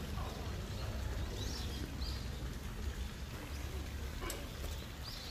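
A few short, high bird chirps outdoors over a steady low rumble.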